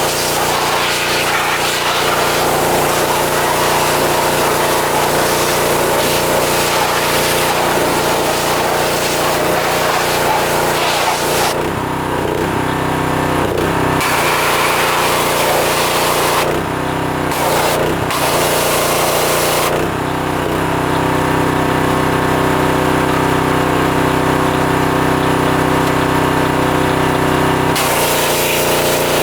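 Pressure washer with a small gas engine running steadily while the wand sprays in stretches. The hiss of the spray stops three times, for a few seconds each, about a third of the way in, past the middle, and for most of the last part, leaving the engine note on its own.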